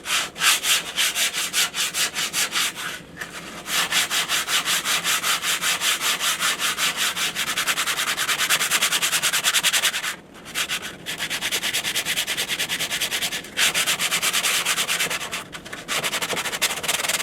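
Sandpaper being worked back and forth over a hardened first coat to smooth it before the second layer, in quick, even strokes of several a second. It stops briefly a few times.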